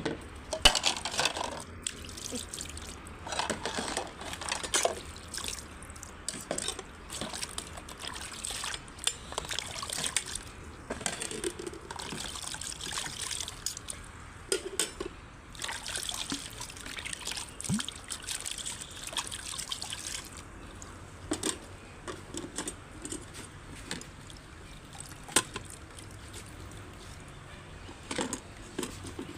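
Water being poured and trickling in uneven splashes, with scattered sharp clicks.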